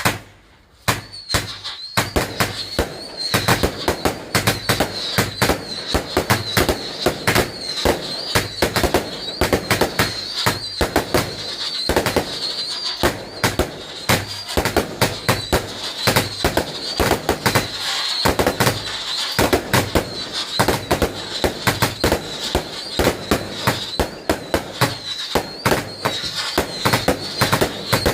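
Fireworks going off: a single sharp bang, then from about a second in a dense, continuous barrage of rapid cracks and bangs. A high wavering whine runs over the barrage.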